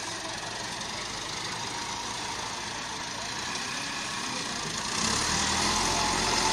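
Tractor engine running steadily, growing louder about five seconds in.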